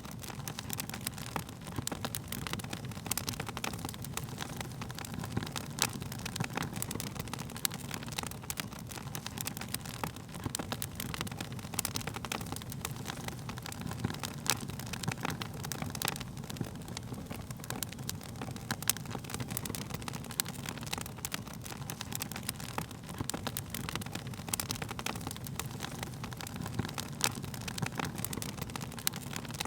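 Wood fire crackling, with many small irregular pops and snaps over a low, steady rumble of the flames.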